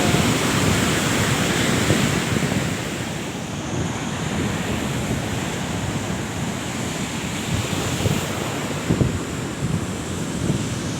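Ocean surf washing in and breaking on the beach, a little louder in the first couple of seconds, with wind buffeting the microphone.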